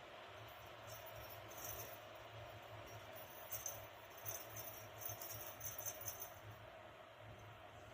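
Small bell jingling in short shakes, once about two seconds in and then repeatedly through the middle, as a cat plays. A faint steady hum lies underneath.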